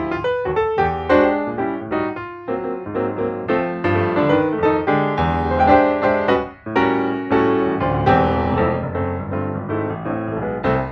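Piano music: quick successions of struck notes over sustained chords.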